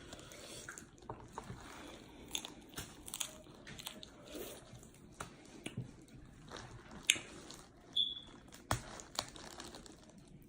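A person eating seafood boil close to the microphone: quiet chewing and biting, broken by scattered sharp clicks and crunches.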